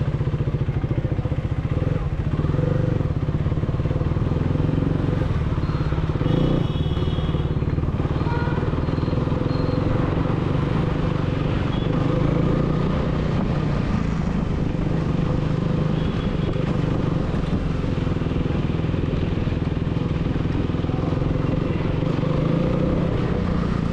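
KTM Duke 390's single-cylinder engine running steadily through an aftermarket dual exhaust, an even low beat with little change in pitch.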